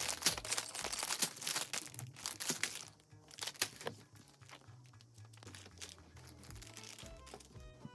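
Plastic crinkling and tearing, as when bags of LEGO pieces are torn open and handled, busiest in the first three seconds and then fading. Background music plays throughout.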